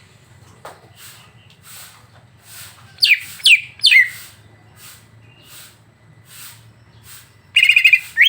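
Songbird singing from a bird-song training recording: breathy high notes repeating about once a second, sharp falling whistles around three and four seconds in, and a fast rattling trill near the end.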